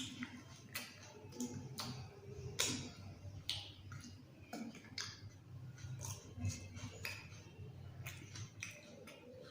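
A person eating: irregular sharp smacks and clicks of chewing, about one or two a second, over a low steady hum.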